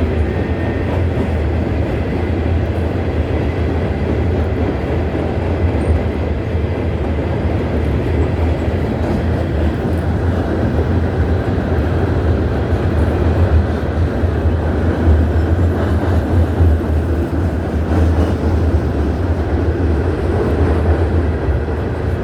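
Empty coal train's cars rolling past, wheels on rail making a steady low rumble.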